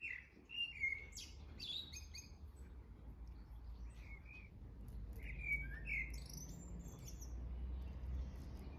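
Small birds chirping and twittering in short, scattered calls, over a faint low steady hum.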